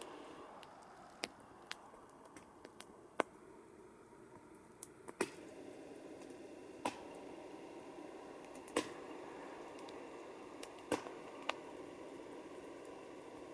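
Wood campfire burning with a soft steady hiss and irregular sharp crackles and pops, the loudest pop about three seconds in.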